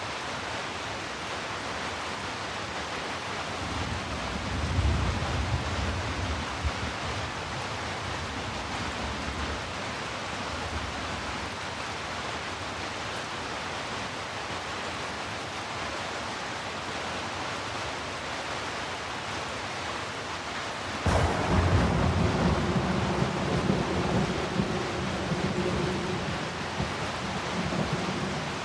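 Steady heavy rain. A low roll of thunder swells about four seconds in. About 21 seconds in, a sudden thunderclap cracks and rolls on for several seconds before fading.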